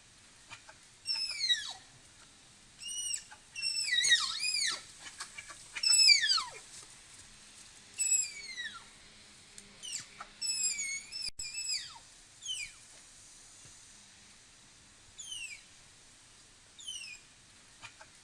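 Lowland tapir giving repeated high-pitched squealing whistles, each sliding steeply down in pitch. They come singly or in quick runs of two or three, a second or two apart.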